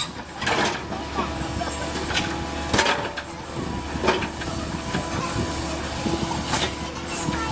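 Heavy scrap-handling machinery running steadily, with a sharp metal clank or crunch every second or two as scrap cars are handled.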